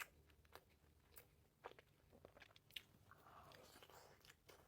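Faint, close-miked eating sounds of a person chewing food: scattered soft mouth clicks and smacks.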